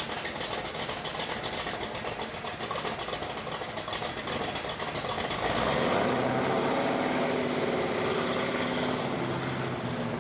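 A car engine running close by, louder from about five and a half seconds in, its pitch falling slowly, as if a vehicle is rolling past.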